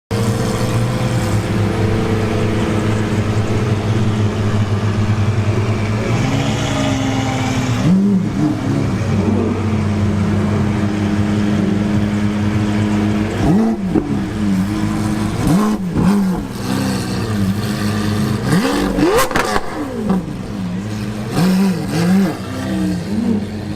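Sports car engine idling with a steady note, then revved repeatedly in short blips that rise and fall in pitch, the biggest about two-thirds of the way through.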